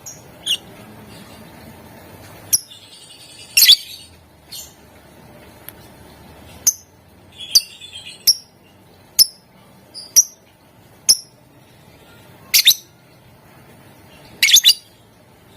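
Lovebirds giving short, sharp, high-pitched chirps at irregular intervals, about a dozen, a few coming in quick clusters of two or three.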